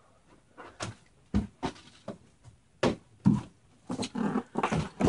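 Handling noises: a string of short, irregular clicks and knocks as parts and objects are picked up and moved about on a work surface.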